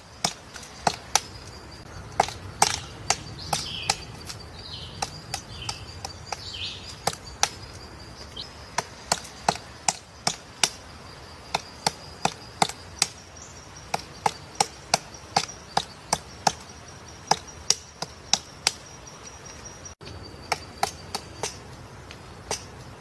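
Sharp knocks repeated at irregular intervals, about two a second, like chopping or hammering, over a steady thin high whine. A few short falling chirps come in during the first few seconds.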